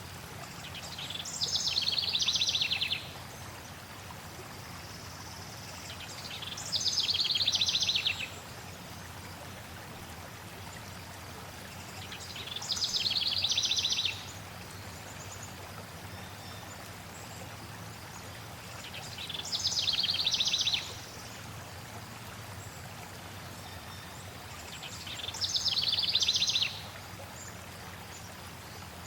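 A songbird repeats the same fast trilled song phrase five times, about every six seconds. Each phrase swells in loudness over a couple of seconds and cuts off sharply. Under it runs the steady rush of a flowing stream.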